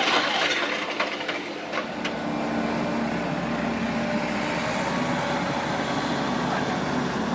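A few sharp knocks over noise, then, after a change about two and a half seconds in, a steady heavy machine engine running.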